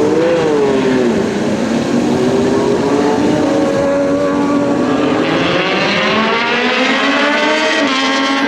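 A motor's pitched running note, sliding down in pitch over the first second, holding fairly steady, then climbing from about halfway through before dropping again near the end.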